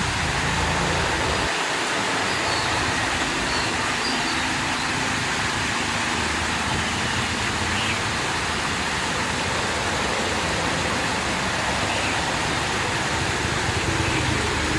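Water flowing out of a small lake, a steady rushing noise with no breaks.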